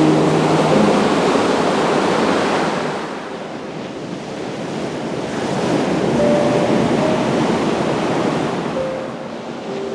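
Ocean surf breaking on a beach: a wash of waves that swells, eases off about three seconds in, then swells again and recedes near the end.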